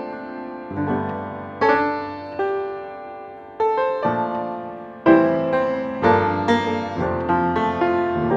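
Background piano music, notes struck and left to decay in slow phrases.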